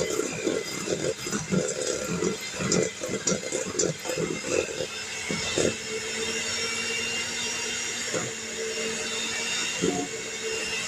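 Electric mixer beating cream cheese and butter, with irregular knocks through the first half, then running more evenly with a steady hum.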